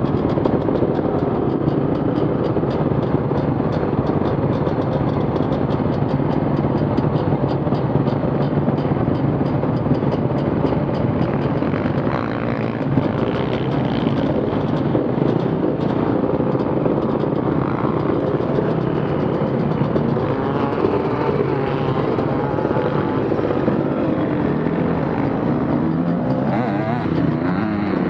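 Off-road vehicle engine running steadily at a loud level, its pitch wavering, then revving up near the end.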